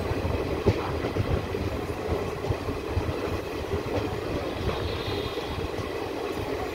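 Express passenger train running along the rails, heard from aboard one of its coaches: a steady rumble of wheels on track with irregular knocks and clatter.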